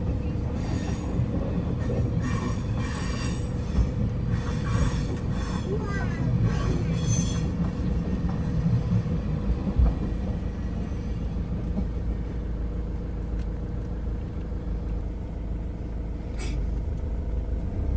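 Train running on the rails: a steady low rumble with a constant hum, and a clatter of higher sounds through the first several seconds.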